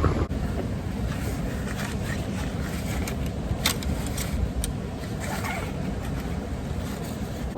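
Steady low rumble of a vehicle in motion, with a few faint sharp clicks.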